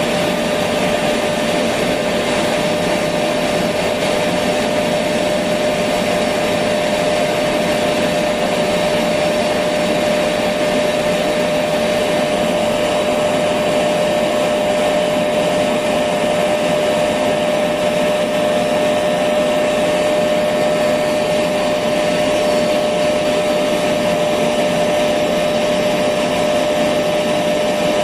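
Electric vacuum cleaner running steadily: an even rush of air with a constant motor whine, unchanging throughout.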